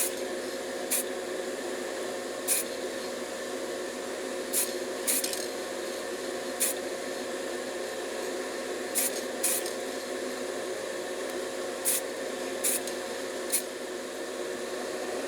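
Spray paint being applied to a small diecast model's cab in about ten short hissing bursts at irregular intervals, over a steady background hum.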